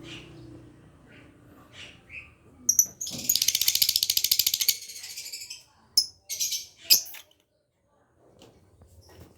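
Lovebird chattering: a few short high chirps, then a rapid trill of fast high notes lasting about two seconds, followed by several more sharp chirps.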